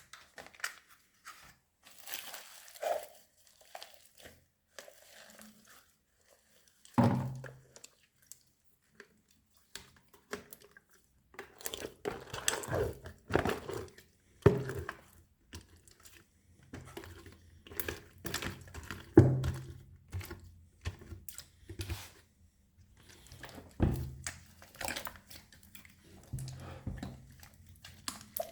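A large mass of mixed old slime being squished, stretched and folded by hand, giving irregular crackling, squelching and tearing sounds, with a few heavier thuds as it is slapped or dropped.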